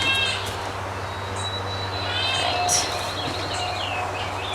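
Bottle-fed goat kid bleating, a high call at the start and another about two seconds in.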